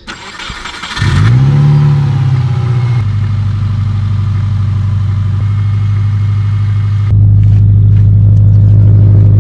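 Saab 9-2X's naturally aspirated EJ20 flat-four cold starting after two weeks sitting: the starter cranks for about a second, the engine catches and its note swings up then settles into a steady fast idle. About seven seconds in the idle becomes louder and deeper.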